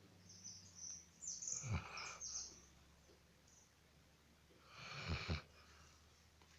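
A dog snoring faintly in her sleep: two snoring breaths about three and a half seconds apart, the first carrying a thin, high squeaky whistle.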